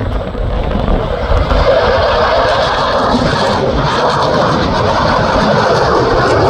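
Fighter jet engine noise growing steadily louder as the jet approaches, over low wind rumble on the microphone.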